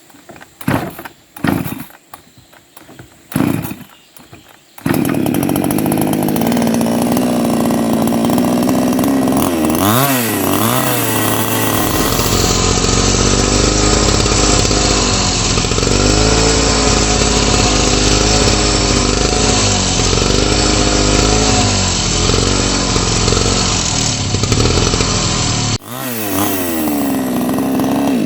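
Two-stroke chainsaw: several short bursts in the first few seconds, then the saw runs steadily at high revs, its pitch dipping and recovering as it is revved and loaded. It cuts out briefly near the end and revs up again.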